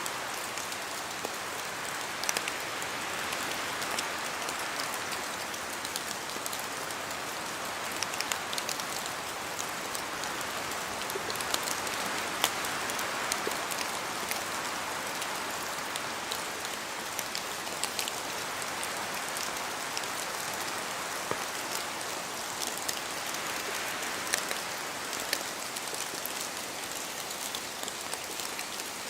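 Steady rain falling in a spruce forest, a dense hiss of rainfall with many separate drops tapping sharply from the trees, the rush swelling and easing gently as wind moves through the branches.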